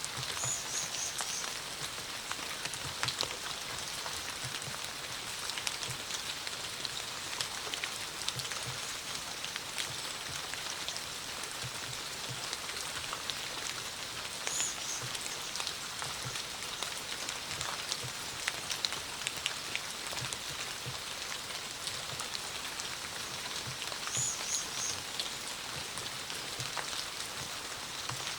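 Steady autumn rain falling as an even hiss, with many single drops ticking close by. Three times, a short run of three or four quick high chirps sounds through it.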